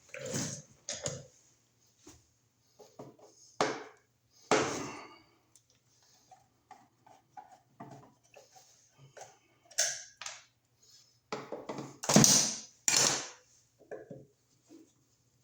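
Intermittent knocks, clicks and rustles of hand tools and parts being handled while working on a wall receptacle, with two louder knocks about a second apart near the end.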